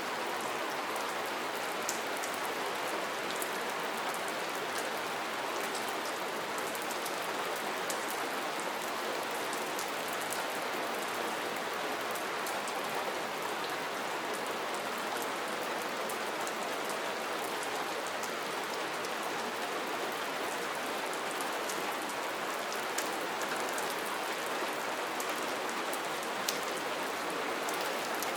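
Steady soft rain, an even hiss of falling rain with scattered individual drops ticking on a surface.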